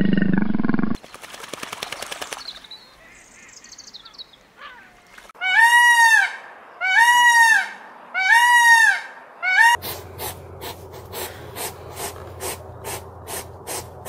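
Indian peacock calling four times, loud honking calls each about half a second to a second long that rise and fall in pitch, spaced about a second and a half apart. A big cat's roar cuts off about a second in, and in the last few seconds a hedgehog snuffles in short sharp puffs, about two or three a second.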